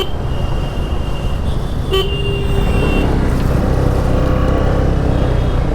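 Road and traffic noise heard from a moving motorcycle, with a steady low rumble from wind and engine. A vehicle horn toots briefly at the start, then honks again about two seconds in for about a second.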